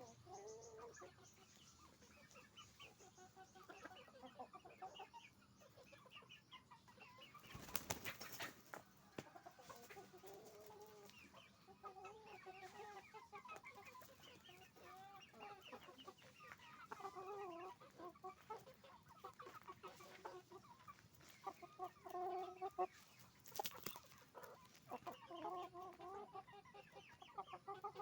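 A flock of chickens clucking and calling over one another in a steady, fairly faint chorus. Two brief flurries of noise break through, about eight seconds in and again near the end.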